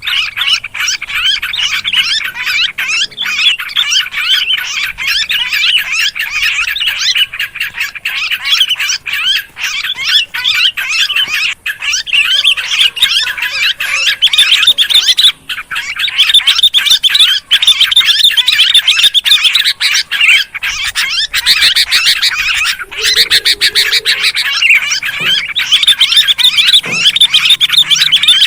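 Noisy, non-stop chorus of sooty-headed bulbuls and yellow-vented bulbuls, many rapid chattering calls overlapping, played as a bird-lure call track.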